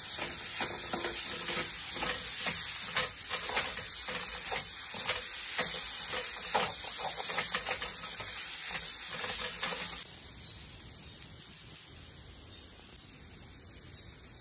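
Spinach stir-fry (araikeerai poriyal) sizzling in oil in a metal kadai while a metal ladle stirs and scrapes it in quick, repeated strokes. About ten seconds in the sizzling and scraping stop abruptly, leaving a faint hiss.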